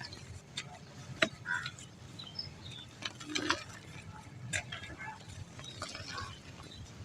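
Dry mud crumbling, with irregular gritty crackles and small snaps and one sharper crack about a second in.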